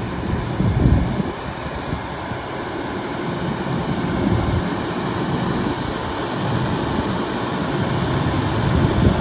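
Diesel engine of a 2011 International Workstar 7300 bucket truck running steadily at raised idle while the Altec boom's hydraulics are worked. A pressure switch on the hydraulic system raises the idle only while a boom function is in use. Two brief low surges come about a second in and at the end.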